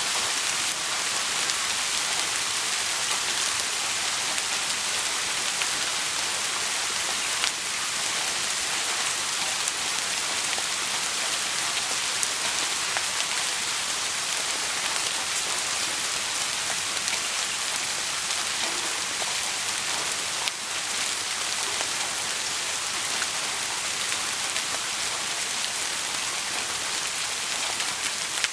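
Steady rain falling, a dense even hiss with scattered sharp ticks of drops.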